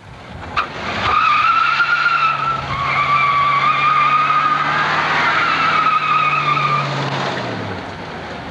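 Tyres squealing in a burnout for about six seconds, a high steady screech over an engine held at high revs. Near the end the squeal stops and the engine comes off the throttle, its note falling.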